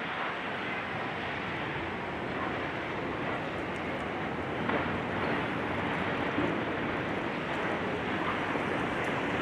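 Heavy demolition machinery running, a steady noisy din with a light knock about five seconds in.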